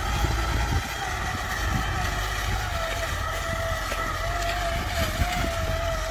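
An engine running steadily with a high, slightly wavering whine over a low rumble.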